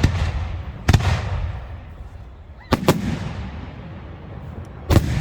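Fireworks going off with sharp bangs a second or two apart, one of them a quick double, each trailing off in a rumbling echo.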